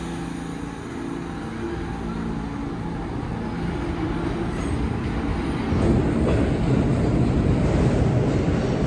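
New York City subway train moving along the platform, a steady rumble that builds and grows sharply louder about six seconds in.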